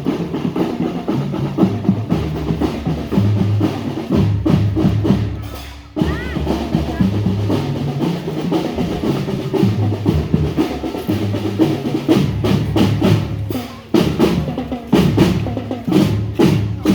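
Marching drum band playing a parade rhythm: snare drums rolling and beating over pitched bass drums, with a brief drop in level about six seconds in before the playing resumes.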